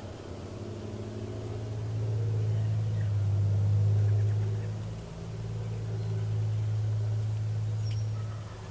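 A low, steady engine drone that swells louder, dips briefly about five seconds in, then swells again.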